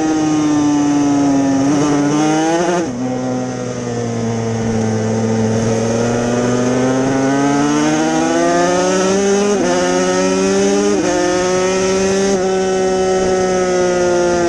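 Yamaha TZ250 two-stroke racing engine at high revs. The revs drop sharply as the throttle is eased, then climb again and fall in quick steps twice near the end, as it shifts up through the gears.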